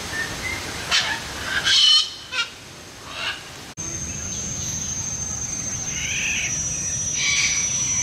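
Birds calling in short bursts, with a steady high-pitched tone starting just before halfway.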